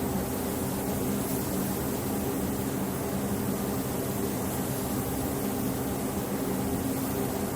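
Steady mechanical drone: an even rushing hiss with a low hum, unchanging throughout.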